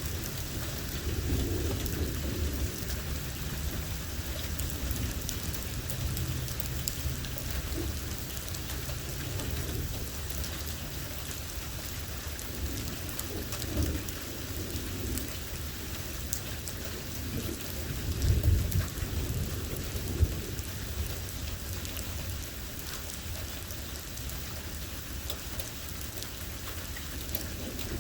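Steady heavy thunderstorm rain with drops pattering, and repeated low rumbles of thunder. The loudest roll of thunder comes about two-thirds of the way through.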